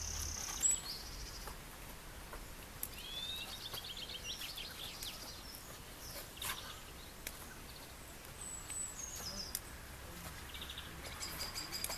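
Birds singing in short separate phrases, including a trilled phrase a few seconds in and a repeated phrase near the end, over a faint steady low hum of outdoor background noise.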